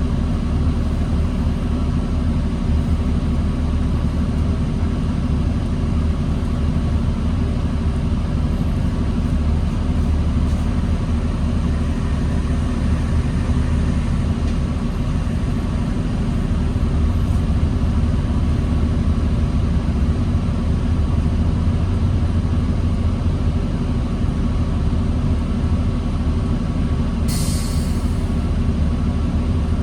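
Diesel engine of a 2009 New Flyer D40LFR transit bus running steadily, heard from inside the bus as a low rumble. A brief hiss of air comes near the end.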